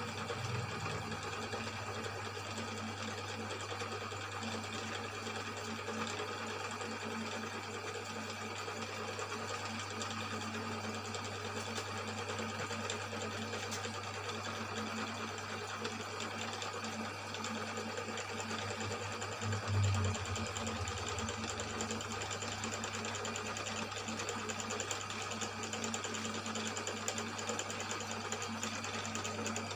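Cylinder boring machine running steadily with an even motor hum as it cuts the bore of a Yamaha Mio M3 cylinder block, one of several passes made for a smooth finish. A brief louder bump comes about two-thirds of the way through.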